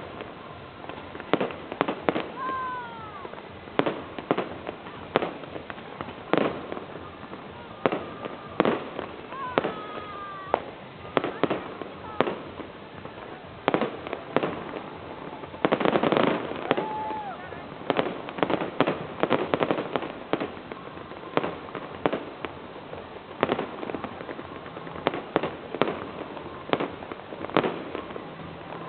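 Fireworks going off: irregular sharp bangs, at times several a second, with a dense crackling rattle around the middle and a few short falling whistles.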